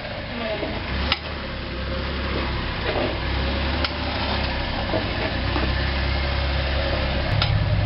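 Off-road 4x4 engine running steadily at low revs while crawling over rock, slowly getting louder, with a few sharp clicks or knocks scattered through.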